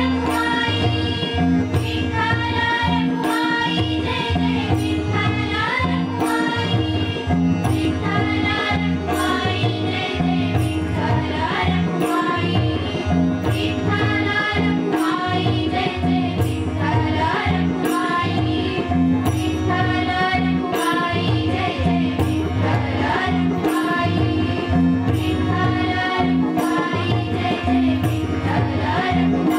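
Bhajan group singing a devotional song with drum accompaniment, sharp percussion strikes keeping a steady beat under the voices.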